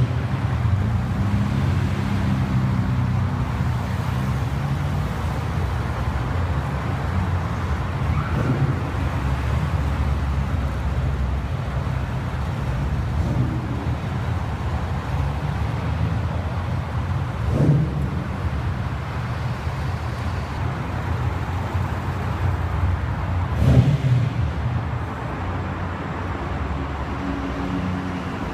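Nissan Fairlady Z (S30) straight-six engine idling steadily, with a brief throttle blip about a third of the way in and two sharper blips in the second half.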